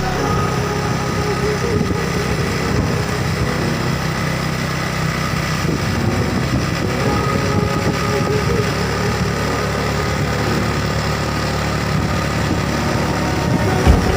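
Small motorcycle engine running steadily at an even, low hum.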